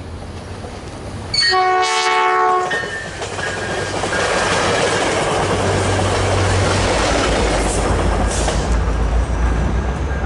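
A Caltrain passenger train sounds one horn blast of about a second and a half, then rushes past at speed with a continuous roar and rattle of wheels on the rails.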